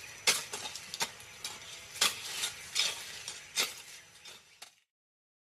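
Irregular sharp clicks and scrapes over a faint hiss, cutting off to dead silence near the end.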